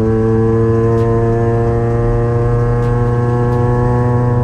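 Toyota Yaris engine droning steadily under way, heard from inside the stripped cabin, its pitch creeping slightly upward.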